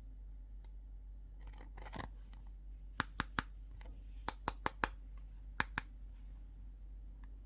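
Short, sharp clicks or snips from small objects being handled, about nine of them in three quick groups, after a brief rustle.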